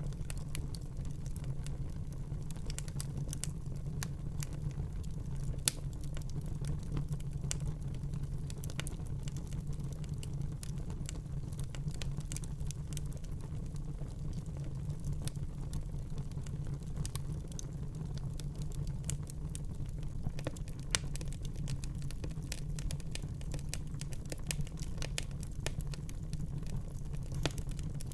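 Wood fire burning in a fireplace: a steady low rumble of the flames with constant small crackles and a few sharper pops.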